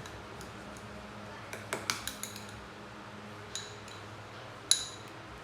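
Light knocks and clinks of small hard objects: a cluster of several about two seconds in, and a louder, briefly ringing clink near the end.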